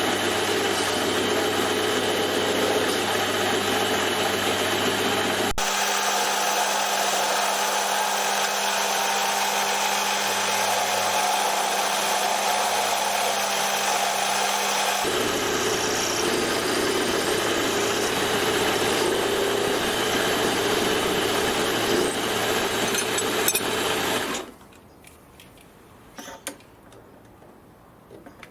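Power machine tool running steadily while cutting a metal spacer. Its sound changes abruptly twice, then the machine stops about 24 seconds in, leaving a quieter stretch with a few light clicks.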